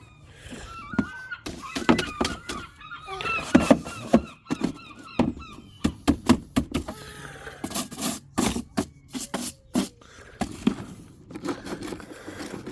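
Gulls calling, with several harsh pitched calls overlapping for the first few seconds, then a run of sharp knocks and clatters.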